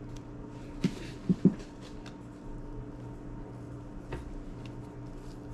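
Small handling clicks and taps of an iPod classic's parts being worked on by hand, with three sharp knocks about a second in, the third loudest, over a steady low hum.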